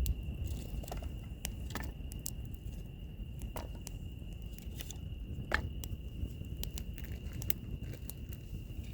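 Wood fire crackling, with scattered sharp pops and snaps over a low rumble; the loudest pop comes about five and a half seconds in. Under it runs a steady, unbroken high insect trill.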